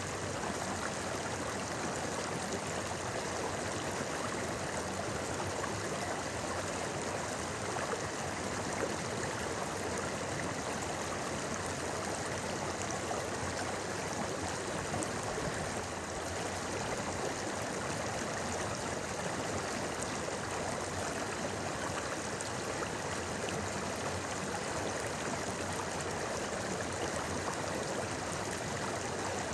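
A stream flowing over stones, a steady babbling rush of water.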